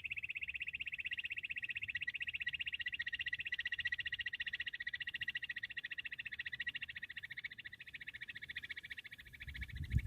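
Bush quail call: a long, unbroken, rapidly pulsed trill that stops abruptly near the end, followed at once by a low thud.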